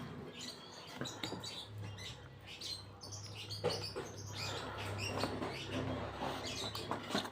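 Close-up eating sounds: wet chewing and lip smacks on a mouthful of fried noodles and rice, many small irregular clicks, with a low steady hum under them through the middle.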